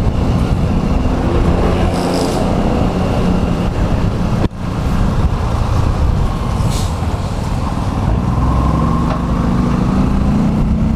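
Vehicle engine running with steady road noise, heard from aboard the moving vehicle in city traffic; the sound briefly drops out about four and a half seconds in.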